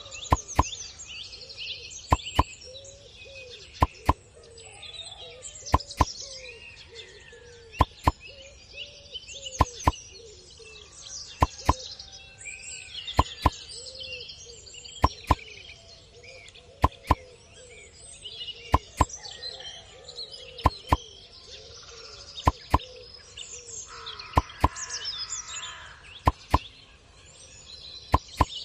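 Small birds chirping and twittering continuously, with sharp clicks that come in pairs about every two seconds.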